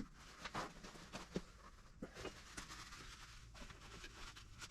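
Faint scattered light clicks and rustles of hands handling tools or parts, over a low steady hum.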